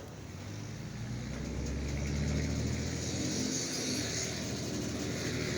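EMD SD40-2 diesel-electric locomotives' 16-cylinder two-stroke engines throttling up under load as the train starts to pull away, a low engine drone growing steadily louder.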